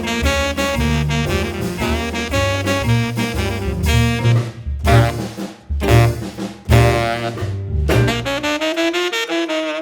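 Saxophone-led jazz instrumental with brass and drums: loud full-band hits separated by short breaks, then a held horn line with the bass dropping out near the end.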